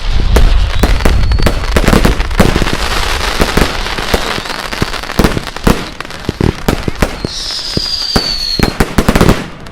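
Fireworks going off in quick succession: dense crackling and many sharp bangs. About seven seconds in, a whistling firework sounds one high whistle that falls slowly in pitch for about a second and a half.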